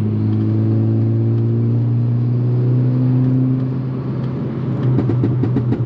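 VW Mk6 Golf R's turbocharged 2.0-litre four-cylinder running under steady load through its aftermarket turbo-back exhaust. Near the end a rapid string of exhaust pops and crackles.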